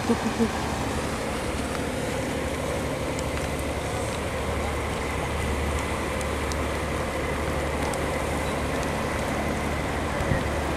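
Steady rushing noise of rain and wind, with a low steady hum underneath and a few faint ticks. A couple of brief knocks come just at the start and again near the end.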